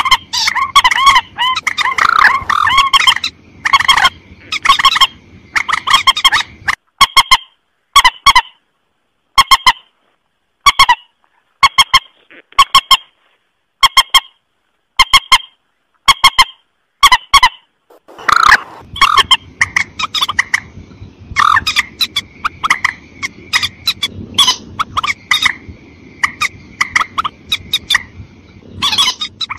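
Recorded calls of mandar rails, short harsh honking calls repeated over and over: a dense overlapping chorus at first, then single calls about a second apart, then a dense chorus again from about two-thirds of the way in. It is a lure-call recording used to draw mandar in.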